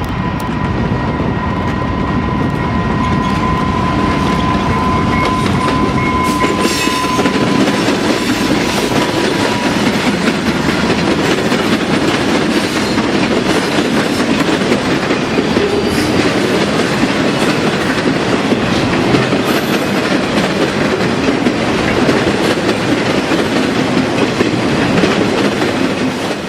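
Freight train rolling past, a steady loud rumble with wheels clattering over rail joints. A thin, steady high whine sits over it for roughly the first ten seconds.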